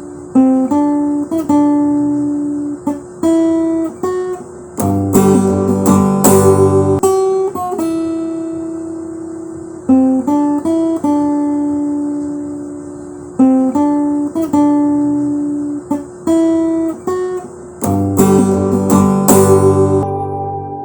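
Background music: a guitar picking single notes, breaking into louder strummed chords twice, the same phrase coming round again after about thirteen seconds.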